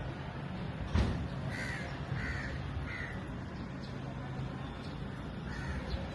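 A bird giving short calls: three in quick succession starting about a second and a half in, and another near the end, over a steady low background hum. A single sharp knock about a second in.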